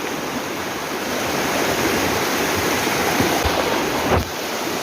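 Rushing water running steadily and loudly, with a few short low thumps near the end.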